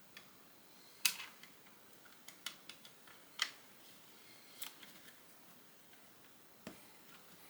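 Plastic Lego pieces being handled and fitted: a scattered series of sharp clicks and taps, the loudest about a second in and about three and a half seconds in, with a duller knock near the end.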